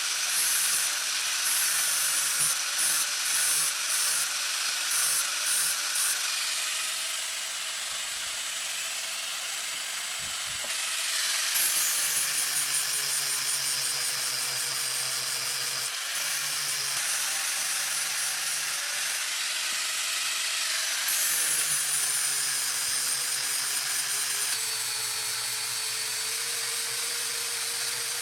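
Power tool running and working material with a high whine, pulsed on and off several times in the first few seconds, then held in long steady runs whose pitch shifts every few seconds as the load changes.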